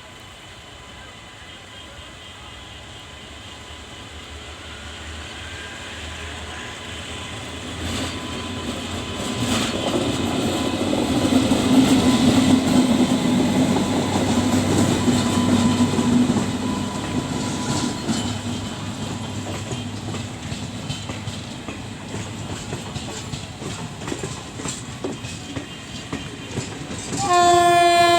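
Express train hauled by a WAP7 electric locomotive, growing louder as it approaches and then rumbling past with wheels clattering over the rail joints. Near the end, a loud train horn sounds once for about a second and a half.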